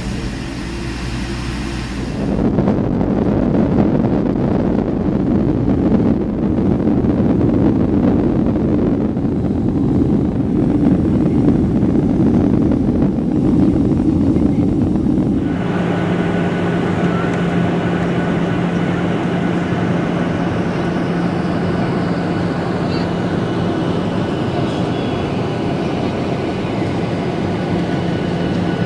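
Steady running noise of a vehicle in motion, changing abruptly twice.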